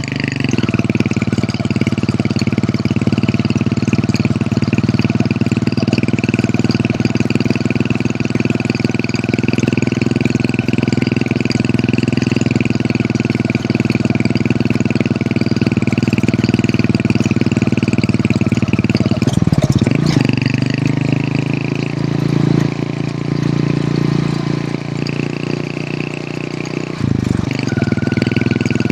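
Hero Honda CD100's small single-cylinder four-stroke engine running under way. The note holds steady, then shifts about two-thirds of the way through and again near the end.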